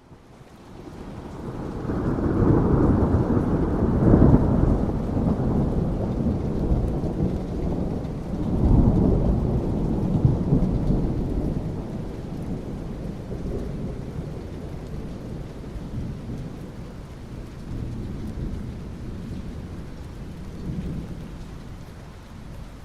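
Thunder rumbling over steady rain. The rumble builds in over the first couple of seconds, peaks around three to four seconds in, swells again about nine seconds in, then slowly fades while the rain goes on.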